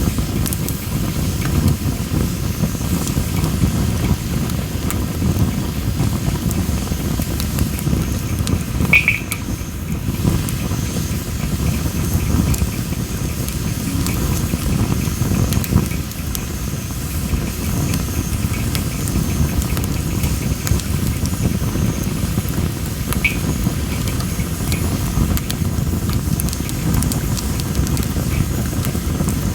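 Campfire of well-dried masaki (Japanese spindle tree) firewood burning, crackling with constant small sharp pops over a steady low rumble of the flames.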